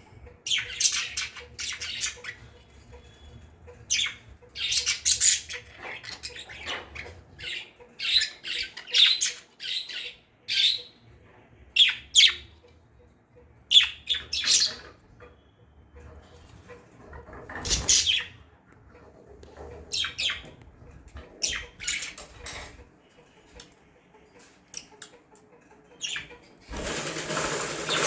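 Pet lovebirds giving short, harsh squawks and chirps, one after another every second or so. A louder burst of rustling noise comes near the end.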